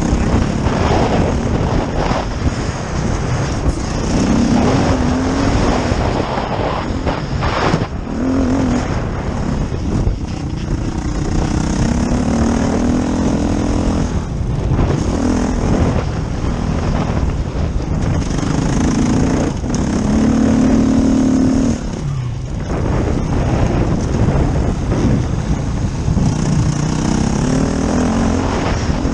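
Dirt bike engine ridden hard on a motocross track, its note rising and falling again and again as the rider accelerates and eases off, over a heavy rushing noise.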